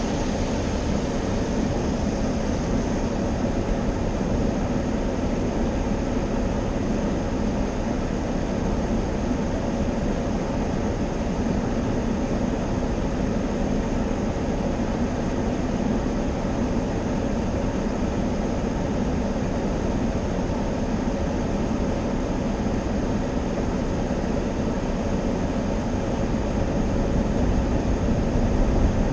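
Automatic car wash equipment running, a steady, unbroken rush of machinery and spraying water.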